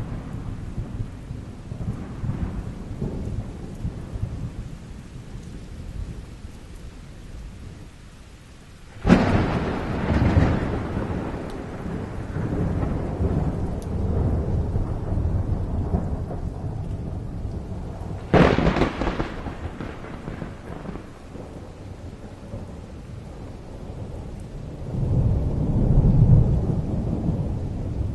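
Thunder during a rainstorm: two sudden sharp cracks, about nine and eighteen seconds in, each trailing into a long low rumble, and a slower rolling rumble that swells near the end, over steady rain.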